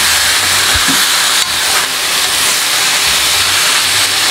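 Marinated chicken sizzling steadily as it fries in hot oil with browned onions in a pressure cooker, stirred with a ladle.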